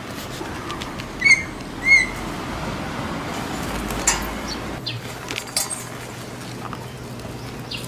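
A bird calling twice: two short, high calls about half a second apart, the loudest sounds here. A few light clicks follow later over steady outdoor background noise.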